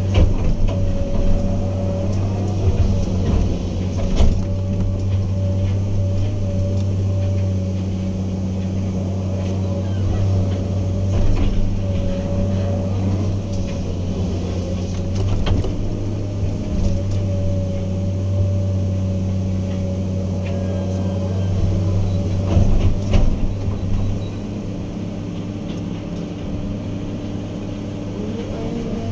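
Heavy earthmoving machine's diesel engine running steadily under work, with a constant higher whine over the low drone and scattered sharp knocks and clanks.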